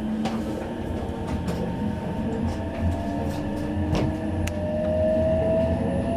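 Electric limited express train running, heard from on board: a steady low rumble with occasional clicks from the wheels on the rails. A faint whine rises slowly in pitch through the second half as the train gathers speed.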